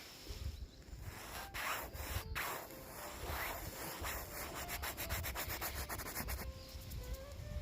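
Rough scraping and rubbing, with a fast run of rasps about two-thirds of the way through. A faint melody plays underneath.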